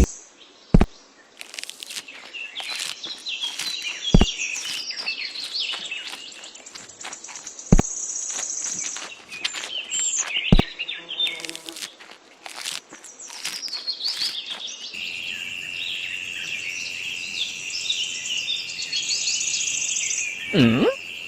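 Birds chirping and insects buzzing, with a steady high insect trill coming in about two-thirds of the way through. Sharp knocks sound four times, about three and a half seconds apart, and a brief low swooping sound comes near the end.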